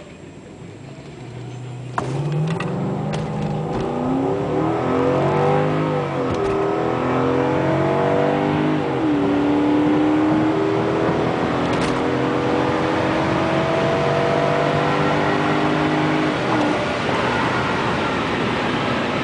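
Lexus GS430's 4.3-litre V8 through an L-tuned aftermarket exhaust, accelerating hard from a launch about two seconds in. The revs climb and drop back at each quick upshift, then settle into a long, steadily rising pull at full throttle with rising road and wind noise, as in a quarter-mile run.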